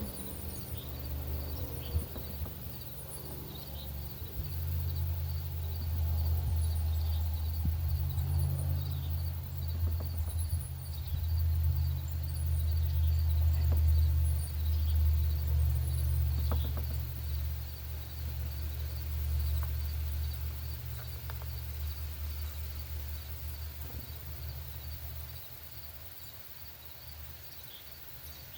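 Outdoor ambience: a low rumble swells in a few seconds in and fades away near the end, while small birds give short, high chirps now and then. Under it all runs a steady, rapidly pulsing high insect call.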